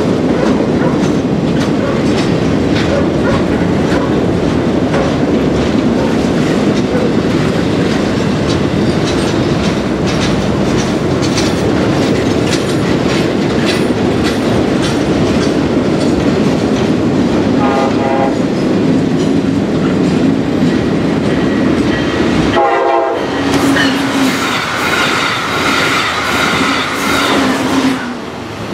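Freight train's trailer-loaded flatcars rolling past at a steady pace: a continuous rumble with wheels clicking over the rail joints. Held tones join in over the rumble during the last few seconds.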